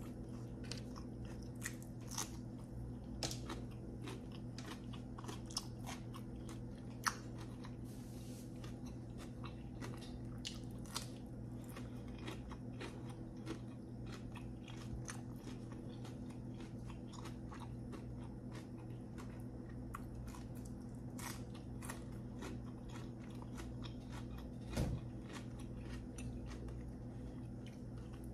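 Close-miked chewing with frequent sharp, irregular crunches as a crisp raw green vegetable stick is bitten and chewed, over a steady low hum.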